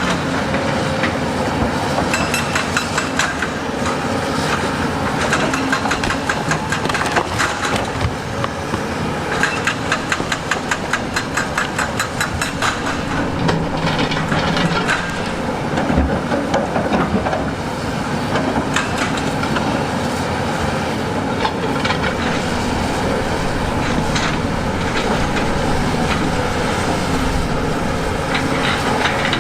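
Heavy earthmoving machine's engine running steadily, with runs of rapid metallic clattering and knocking over it.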